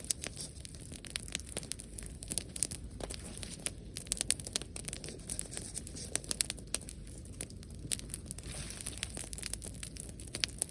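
Dry brush crackling, with many irregular sharp snaps over a low steady rumble.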